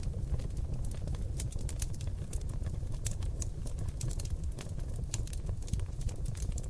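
Seasoned oak logs burning in a fireplace: many irregular sharp crackles and pops, several a second, over a steady low rumble of the flames.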